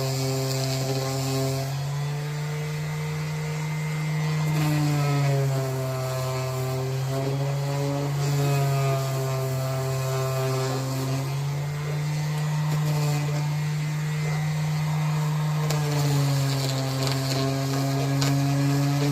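Handheld power tool, such as a grinder or sander, running continuously. Its pitch dips and recovers over several seconds as it is bogged and eased.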